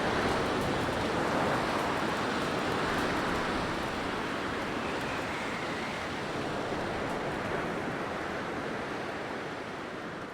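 Blizzard wind blowing: a steady rushing noise with faint whistling tones, slowly fading out.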